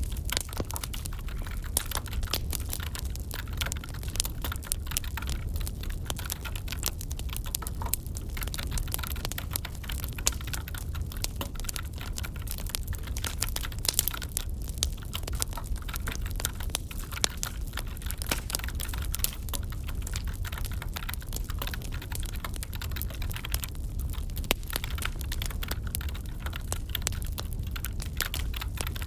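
Wood fire crackling steadily, with frequent irregular sharp pops and snaps over a low steady rumble of flames.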